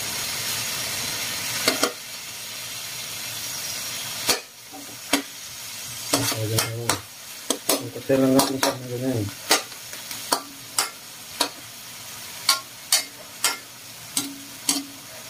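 Chicken pieces sizzling in hot oil in a metal wok while a spatula turns them over. The sizzle is steady at first, then many sharp, irregular clacks of the spatula against the pan follow, with a couple of longer scrapes near the middle.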